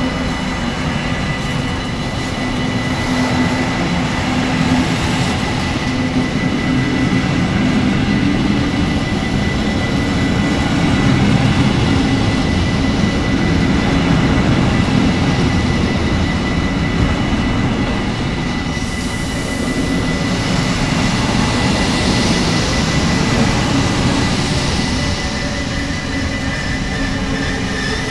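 Freight wagons of a mixed freight train rolling steadily past at close range: a continuous rumble of steel wheels on the rails, with a thin steady high tone above it.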